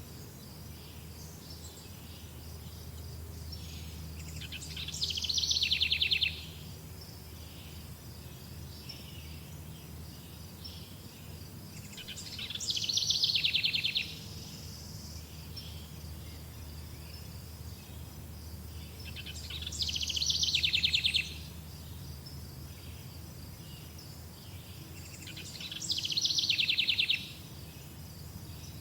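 A songbird repeats a trilled phrase four times, about every seven seconds; each phrase swells for about two seconds and then stops abruptly. Between phrases there is a steady, pulsing insect chirring and a low rumble.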